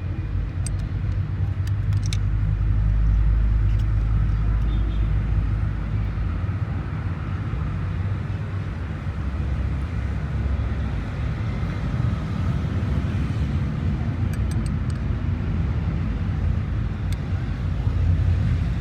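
Perkins four-cylinder diesel engine running steadily with a low, even rumble.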